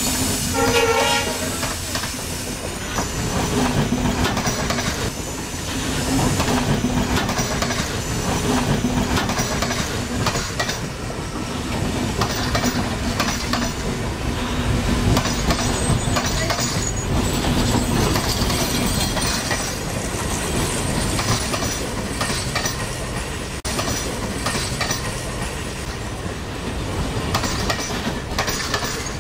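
Passenger coaches of a locomotive-hauled train rolling past at close range, their wheels clacking over the rail joints, with a brief pitched tone about a second in.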